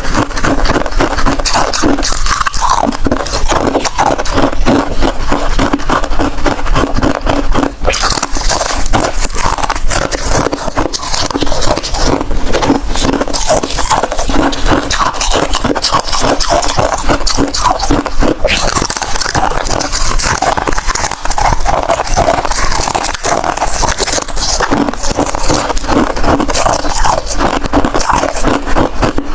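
Close-miked crunching and chewing of hard freezer ice and frost, a dense, unbroken run of crisp cracks and crackles.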